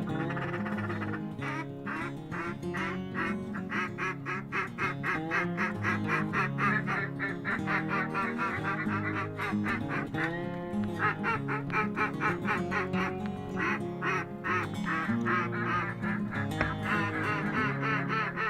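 Rapid, rhythmic duck quacking running throughout, over background music.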